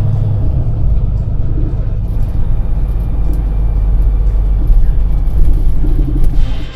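Steady low rumble of a running vehicle engine, heavy in the bass.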